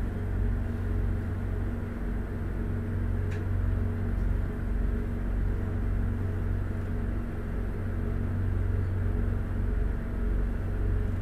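Low steady rumble and hum of a departing passenger train, its coaches rolling slowly past at low speed, with one faint click about three seconds in.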